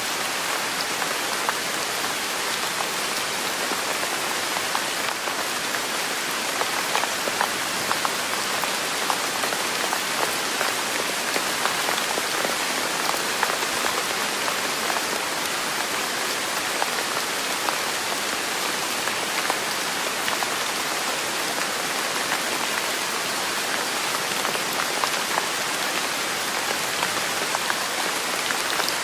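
Steady rain falling, with many separate drops ticking sharply on a hard surface over an even hiss.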